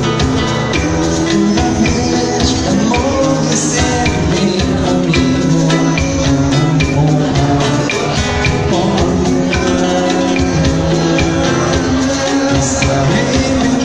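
Brazilian pop band music with a drum kit keeping a steady beat under guitar and sustained chords, in a stretch without recognisable lyrics.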